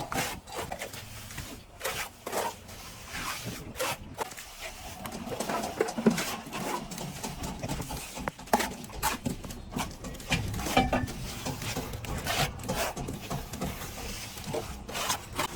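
Plastering trowel scraping and rubbing plaster across a wall in irregular strokes, with scattered sharp knocks and clicks.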